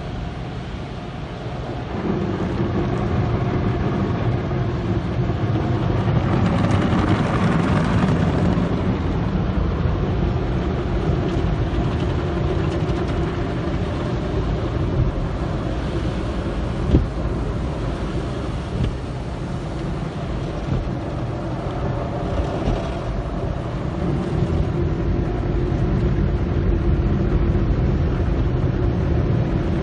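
Automatic soft-cloth car wash tunnel running around the car: a steady wash of spraying water and spinning, rubbing machinery, growing louder about two seconds in, with one sharp knock about halfway through.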